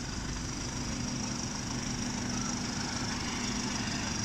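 Nissan Navara EL's diesel engine idling steadily through a newly fitted HKS full exhaust, a low even hum.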